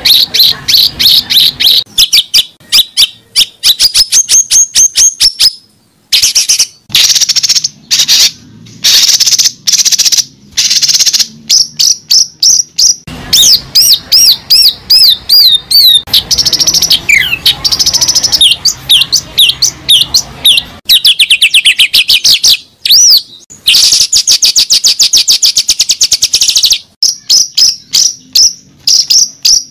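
A bird singing loudly and close up: a long, varied song of rapid chirps, fast trills and sweeping whistled notes with short pauses.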